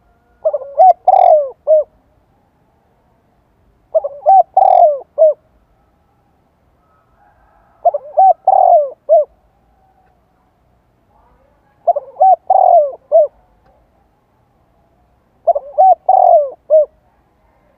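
Spotted dove cooing, the decoy bird's song used to provoke wild doves into calling back. It repeats a short multi-note phrase five times, about every four seconds.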